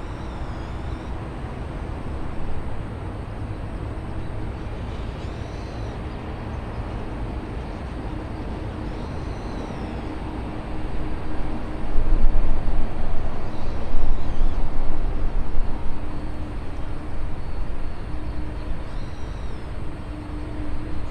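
Outdoor airport ambience: a steady low rumble with wind buffeting the microphone, growing louder and gustier about halfway through. Short chirping bird calls repeat every few seconds.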